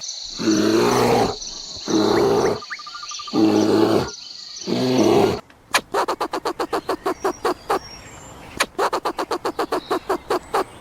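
Animal calls: four low, pitched calls in the first half over a steady high tone, then two long runs of rapid clicking, about eight clicks a second.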